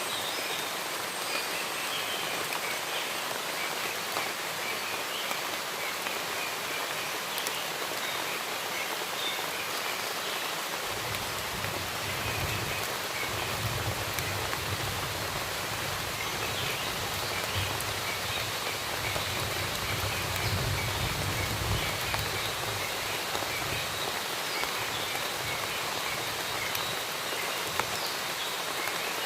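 Steady rainfall in a forest, with small birds chirping faintly and intermittently through it. A low rumble rises beneath the rain from about a third of the way in and fades out about two-thirds through.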